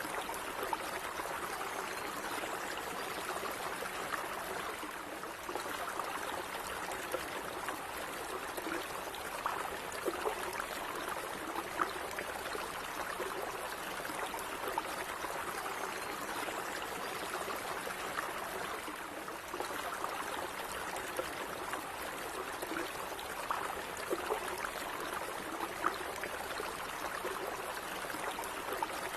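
Small stream of water running steadily, with light trickling and gurgling.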